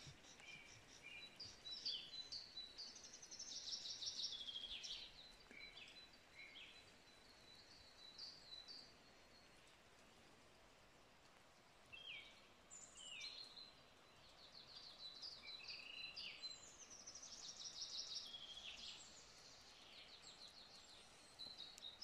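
Faint songbirds singing in a wintry forest: scattered high chirps and quick trilled phrases in two bouts, with a lull of a few seconds in the middle.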